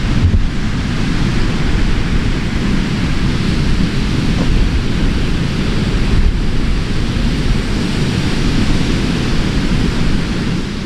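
Steady rush of ocean surf with wind rumbling on the microphone, fading out near the end.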